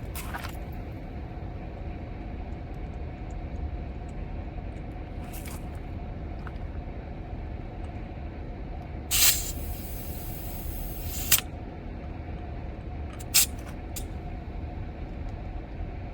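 Air hissing from a tire valve stem as a tire pressure gauge is pressed onto it. A loud hiss starts about nine seconds in and trails off over two seconds, ending with a click. A few seconds later come a brief second hiss and a click, all over a steady low hum.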